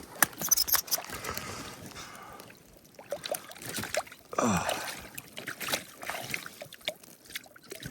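Water splashing and sloshing, with scattered clicks and knocks, as a freshly caught rainbow trout is handled in the water. A short sound falls in pitch about four and a half seconds in.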